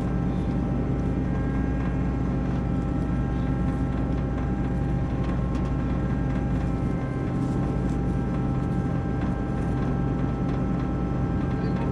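Combine harvester engine running steadily at a constant speed, with a few faint metallic clinks over it as the header's PTO shaft is uncoupled.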